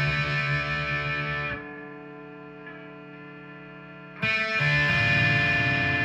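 G&L Legacy Tribute electric guitar with single-coil pickups played through a Line 6 amp's distortion: loud distorted chords that stop about a second and a half in, a quieter ringing stretch, then another loud distorted chord struck about four seconds in.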